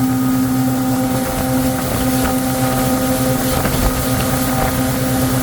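Motorboat engine running steadily under way, a constant pitched drone, with wind buffeting the microphone.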